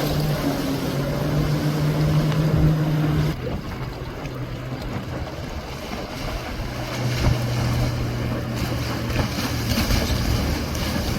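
Motorboat engines running steadily over wind and water noise. One boat's engine drops away about three seconds in, and another, lower-pitched engine comes up around six and a half seconds in.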